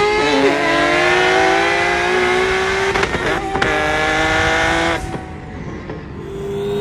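Car engine pulling hard under acceleration, its pitch climbing steadily, with a brief gear-change dip just after the start and another break around three seconds in. About five seconds in the engine note drops off as the throttle is lifted, then settles into a lower steady tone.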